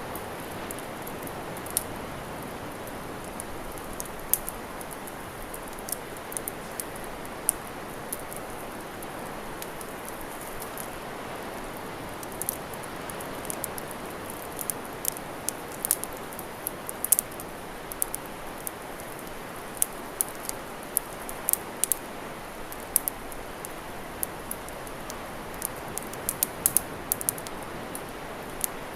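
Wood fire crackling with irregular sharp pops, more frequent about halfway through, over a steady wash of sea waves.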